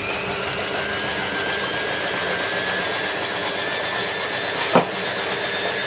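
Hotpoint 9534A washing machine's drum spinning, its motor whine slowly rising in pitch as it speeds up. A single sharp knock is heard near the end.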